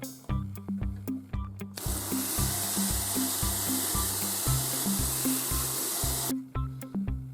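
Background music with a steady beat; about two seconds in, a loud, even spray-like hiss starts, runs for about four and a half seconds and cuts off suddenly.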